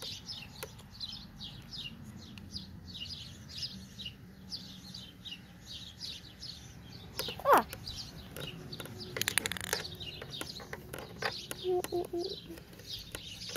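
Small birds chirping, a quick run of short falling chirps, with clicks and rubbing from the phone being handled. A single louder falling call comes about halfway through.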